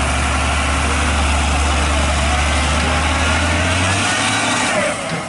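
Truck engine idling steadily, its low hum stepping up in pitch about four seconds in.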